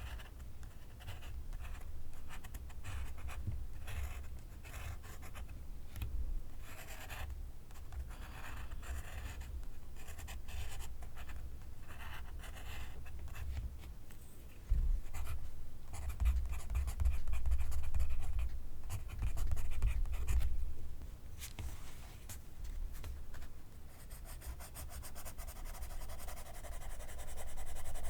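Pencil writing on paper: short scratchy strokes in irregular runs, with a low thudding against the writing surface underneath that gets louder about halfway through. Near the end the strokes come faster and denser.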